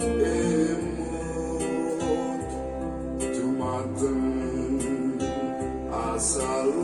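Instrumental music with plucked guitar and held bass notes, played back through a JBL Bar 2.0 soundbar with a built-in woofer. A few cymbal-like hits come near the end.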